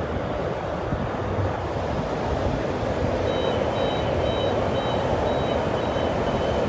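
Steady rumble of the stationary Bombardier B-series electric train at the platform. About three seconds in, a high two-tone warning beep starts and repeats about twice a second: the door-closing warning before the train departs.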